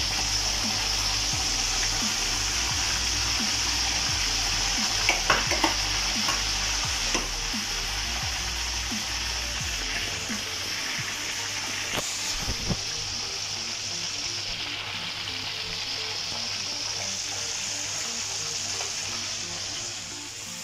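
Whole marinated chicken sizzling steadily as it fries in hot oil in a metal kadai. A wooden spatula knocks and scrapes against the pan a few times as the chicken is turned, in a cluster about five seconds in and again around twelve seconds.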